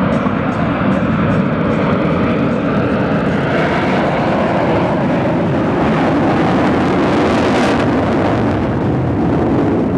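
Four Blue Angels F/A-18 Hornet jets taking off together in afterburner, a loud continuous jet roar. It builds as they pass and is loudest about three-quarters of the way through.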